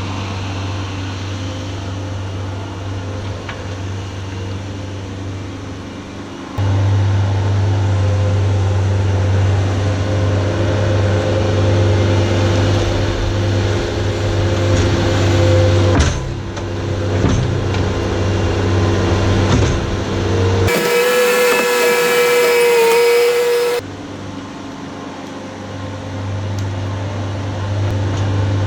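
Skid steer engine running steadily under work, a deep hum with a steady whine above it, jumping abruptly in level and tone at several cuts. For about three seconds near the end the low hum drops out and a higher, wavering whine takes over.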